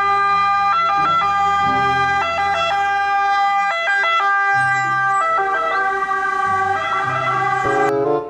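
Electronic siren sound: loud, steady pitched tones that jump between notes rather than gliding, over a low bass line, cutting off suddenly near the end.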